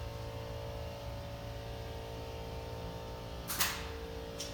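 Steady electrical hum of an indoor room, with a brief rustling or scuffing noise about three and a half seconds in and a fainter one near the end.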